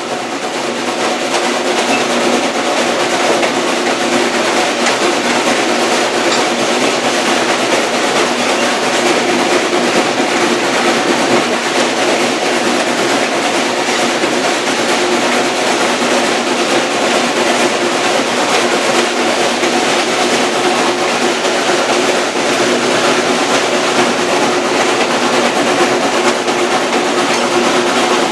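Passenger train rolling steadily along the track, heard on board a coach: a continuous rumble and rail noise with no clear beat.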